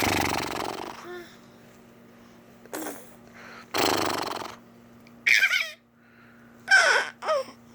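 Playful vocal noises traded back and forth: two long breathy, snort-like blows, then short high squeals that slide down in pitch, three of them near the end.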